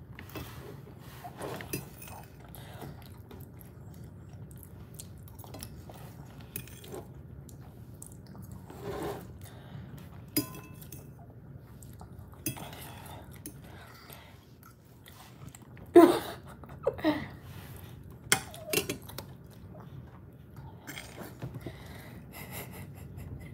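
A person chewing a mouthful of shredded chicken, with occasional short clicks of a metal fork against a ceramic plate. A brief louder sound comes about 16 seconds in.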